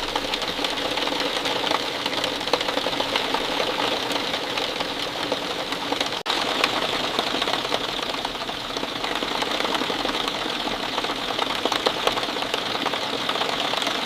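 Steady rain falling, a dense patter of many small drop ticks over a constant hiss. The sound cuts out for an instant about six seconds in.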